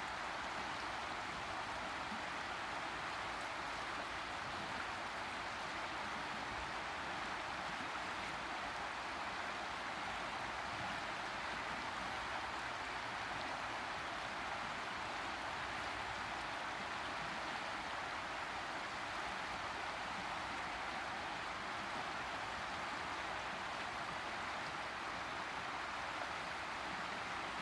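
River water rushing steadily over a shallow bed, an even hiss with no breaks.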